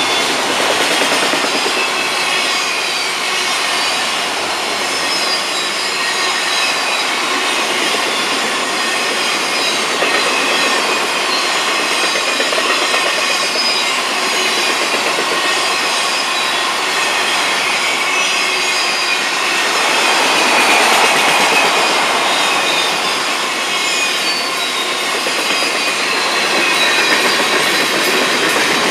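Freight train cars rolling past close by: a steady rumble and clatter of steel wheels on the rails, with a thin, high squeal from the wheels on top.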